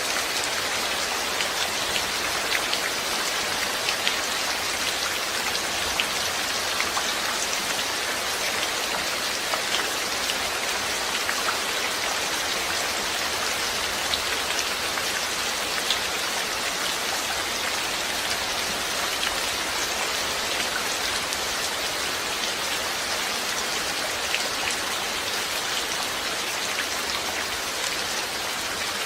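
Steady rain falling, an even hiss dotted with the ticks of individual drops hitting a surface.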